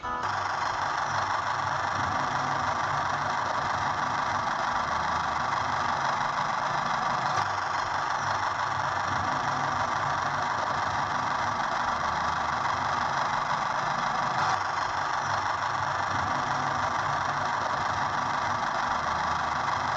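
Steady engine-like running sound, with a low throb that wavers every second or two under a constant hum.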